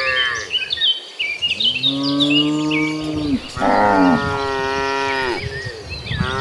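A herd of cattle mooing: several long, drawn-out moos from different cows follow one another, some overlapping, with a new one starting near the end. Short high chirps sound over the first half.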